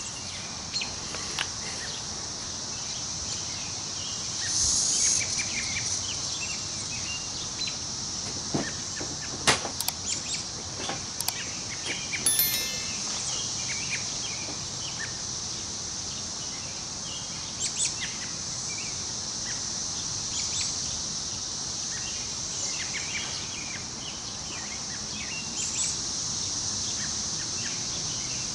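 Woodland ambience: a steady high insect drone, with scattered short bird chirps over a soft, even rustle of wind in the trees. A few sharp clicks come around a third of the way in.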